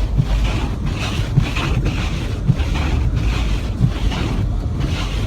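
Steady rumble and hiss of a car driving on snowy roads, heard from inside the cabin, with road and wind noise.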